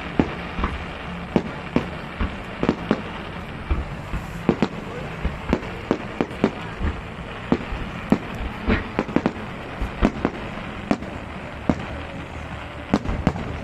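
Fireworks going off in a rapid, irregular series of sharp bangs and pops, a few each second, over a steady background rumble.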